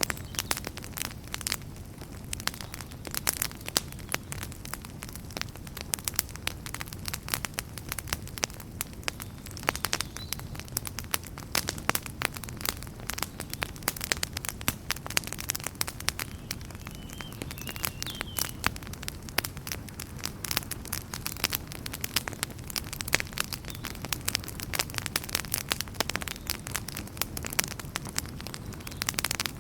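Wood campfire crackling, with dense, irregular sharp pops and snaps over a low, steady rumble of flame.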